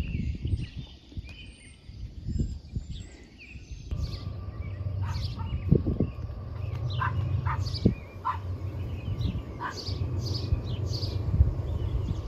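Small birds chirping in short, repeated calls over a steady low rumble. About four seconds in the sound changes abruptly, and the chirps become louder and more frequent.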